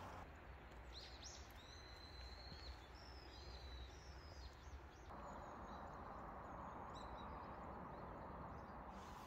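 Quiet outdoor ambience with small birds chirping now and then: short, high whistled calls over a steady low hiss that gets slightly louder about halfway through.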